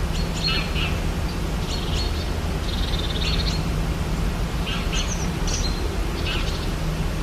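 Rainforest ambience: scattered short bird chirps and calls, with a longer trill about three seconds in, over a steady low background hum.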